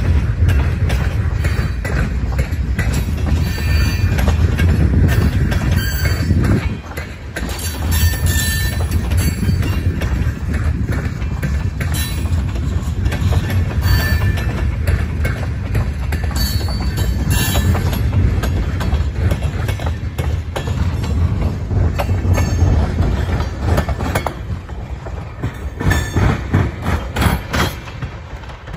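A freight train of tank cars rolling past: a steady low rumble of steel wheels on the rails, with repeated clicks as the wheels cross rail joints and brief high wheel squeals every few seconds.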